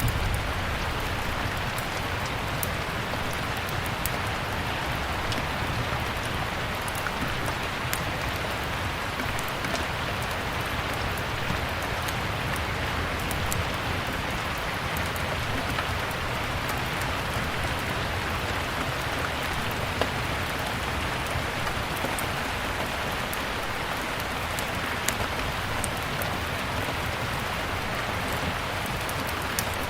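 Steady rain with a wood fire crackling in a fireplace: an even hiss broken by scattered sharp pops and clicks.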